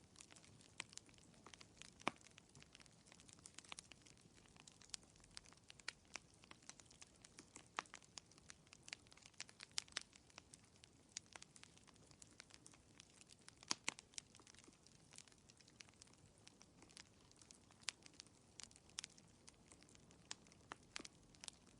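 Fireplace wood fire crackling faintly: irregular small pops and snaps, several a second, over a soft steady hiss.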